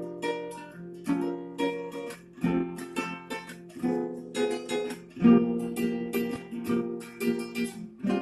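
Acoustic guitar strumming chords in a steady rhythm, each strum ringing on, as the instrumental opening of a song with no singing yet.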